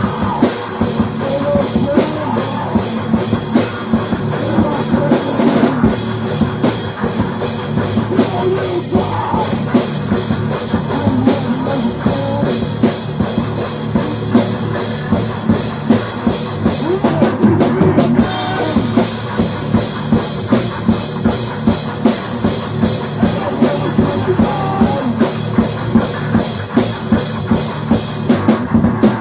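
Loud rock music with a full drum kit keeping a steady beat, bass drum prominent.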